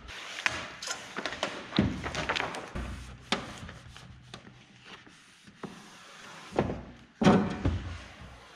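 Handling noises from hands-on work: scattered taps, clicks and rubbing, with heavier knocks about two seconds in and again about seven seconds in, the second the loudest.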